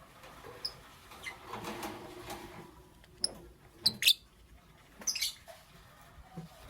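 Lovebirds chirping: a soft chatter, then a few short, sharp, high-pitched chirps in the second half, the loudest about four seconds in.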